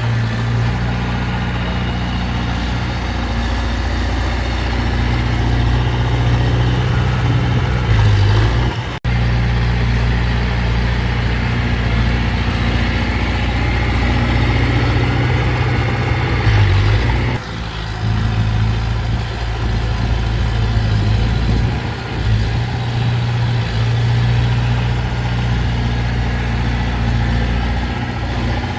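Heavy diesel engine of earthmoving machinery running steadily with a deep, even drone, swelling louder twice. It drops out for an instant about nine seconds in.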